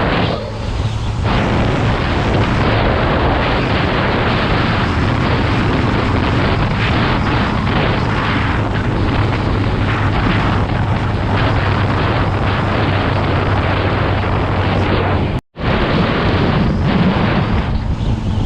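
Motocross bike ridden along a road, its engine hum buried under heavy wind buffeting on the microphone. The sound cuts out briefly about fifteen seconds in.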